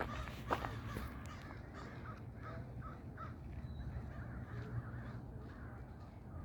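Crows cawing: a quick run of short repeated caws starting about a second and a half in, then fainter calls, over a low steady background rumble.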